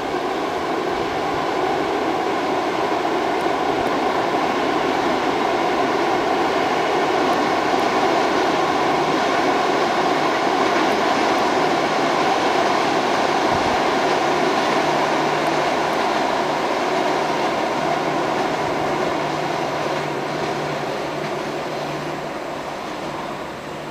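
Passenger train crossing a high steel trestle viaduct: a steady rumble of wheels on rails over the steel span, fading over the last few seconds as the train draws off the bridge.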